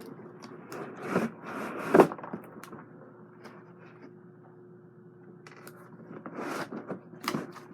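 Handling noise from lifting a large model helicopter out of its packaging: scraping and rustling, with a sharp knock about two seconds in. It is quieter for a couple of seconds in the middle before the rustling starts again.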